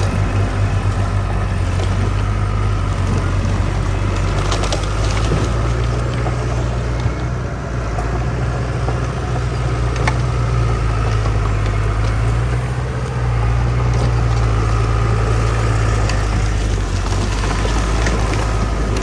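Heavy diesel engine of earthmoving machinery running steadily with a deep low hum, with a few scattered sharp clicks and clanks over it.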